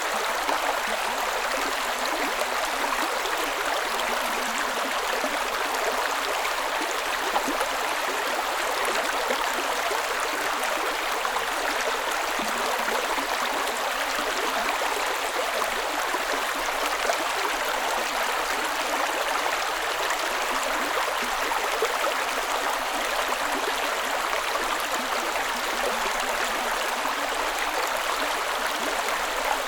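Creek ambience: a stream of water running steadily over rocks, with a continuous splashing and gurgling rush.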